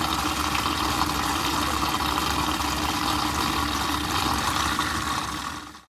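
Water pump running steadily, pushing water through the plumbing under pressure. It fades and cuts off just before the end.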